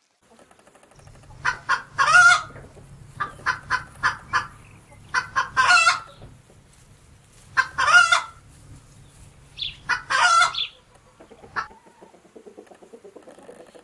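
Chickens calling about five times, each call a quick run of short clucks ending in a longer drawn-out squawk, over a low steady hum.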